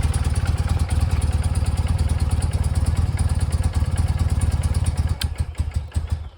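1992 BMW R100GS PD's air-cooled boxer twin idling with an even pulse. Near the end it is shut off: the firing slows over the last second and stops.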